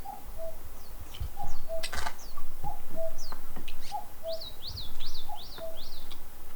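Wild birds calling: a low two-note falling call repeated over and over, with higher chirps and a quick run of four chirps past the middle. There is a sharp knock about two seconds in.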